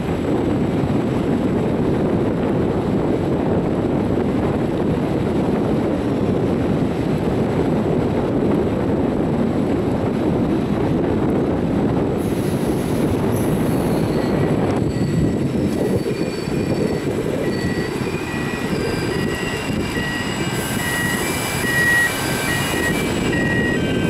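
Vivalto double-deck commuter train running, a steady rumble heard from inside the upper deck. From about two-thirds of the way through, short high-pitched squeals come and go from the running gear over the rumble.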